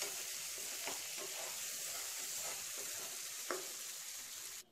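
Mutton chukka sizzling in a nonstick kadai over a low flame while a wooden spatula stirs it, a steady frying hiss with a couple of light scrapes of the spatula on the pan.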